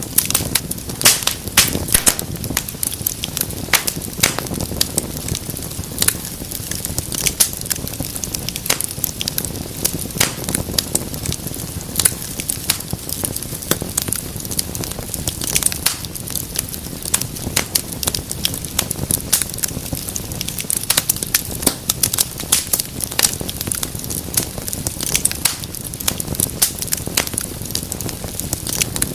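Wood fire crackling, with frequent sharp irregular pops over a steady low rumble of flames.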